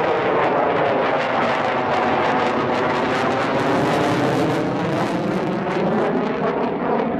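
Aircraft flying past: a loud, steady engine noise whose hiss grows brighter toward the middle.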